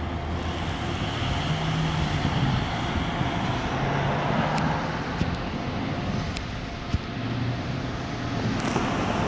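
Diesel passenger train moving slowly, its engine giving a low steady hum that shifts pitch a few times, over the noise of passing road traffic; one sharp click about seven seconds in.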